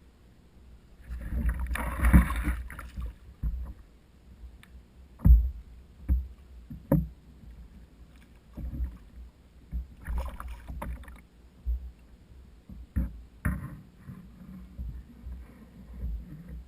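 Water splashing and sloshing around a kayak, with several sharp, dull thumps in between.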